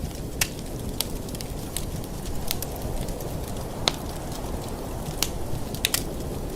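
Wood fire burning in a fireplace: a steady low rumble of flames with sharp, irregular crackles and pops, one louder pop about four seconds in.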